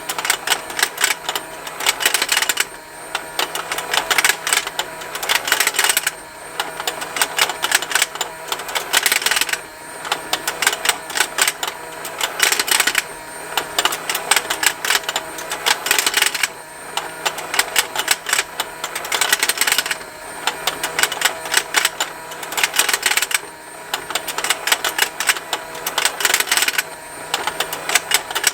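Plastic fishing game toy running: rapid ticking and snapping of plastic parts over the faint hum of its small motor. The ticking comes in runs of about three seconds broken by short lulls, repeating steadily.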